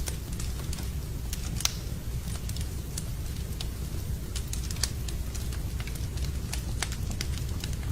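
Wood campfire crackling, with irregular sharp pops and snaps over a steady low rumble; two louder pops stand out, one about a second and a half in and another near the five-second mark.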